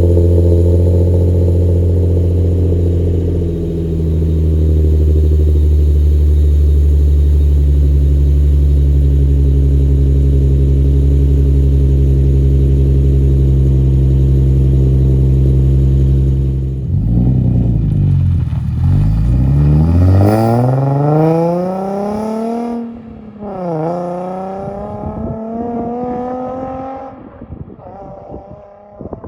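Nissan 350Z's 3.5-litre V6 running through a decat, straight-through Invidia Gemini exhaust, held at a steady engine speed. After about 17 seconds it is revved up and let fall back, then blipped once more and allowed to settle, dropping away near the end.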